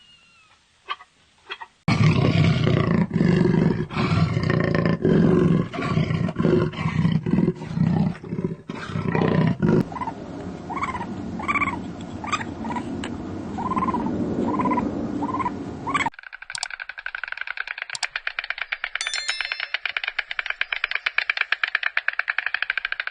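A sequence of animal sounds: a loud, deep roaring growl for several seconds, then a run of about eight short pitched calls, then after a sudden cut a steady fast rattling pulse.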